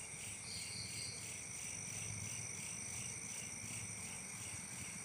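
Night insect chorus, crickets chirping in a steady, evenly pulsing high-pitched drone.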